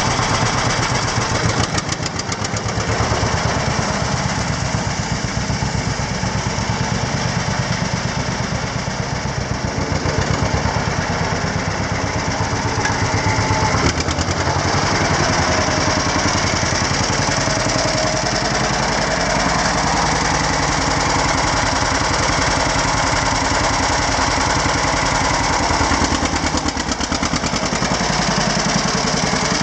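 John Deere BWH tractor's two-cylinder engine running steadily with an even, pulsing beat.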